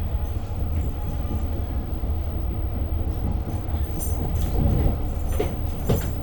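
Long Island Rail Road passenger train running along the track, heard from inside the car: a steady low rumble, with a few knocks and rattles from about four to six seconds in.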